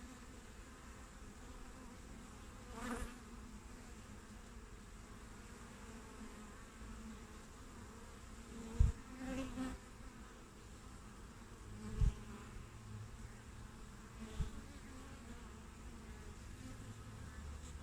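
Honeybees buzzing at a hive entrance: a steady hum of many wings. Louder buzzes swell up and fade several times, and there are three short low thuds.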